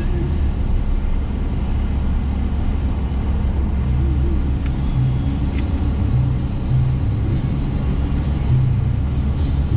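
Steady low road and engine rumble inside a moving car's cabin, with music from the car radio playing under it.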